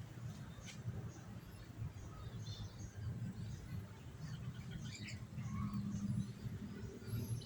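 Short, scattered high chirps from a small bird, likely the brown-throated sunbird, over a steady low rumble.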